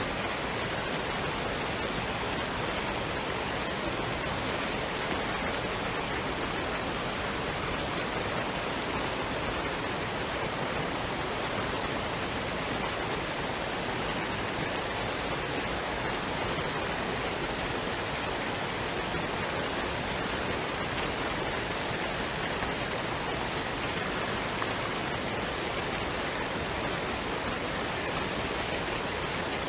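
Waterfall and stream water rushing in a steady, even roar of noise with no breaks or changes.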